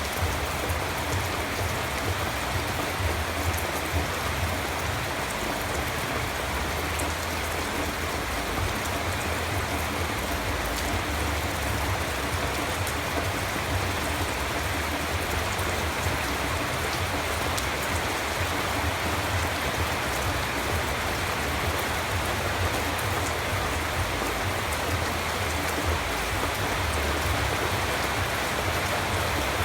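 Steady rainfall, a dense even hiss of drops falling on surfaces.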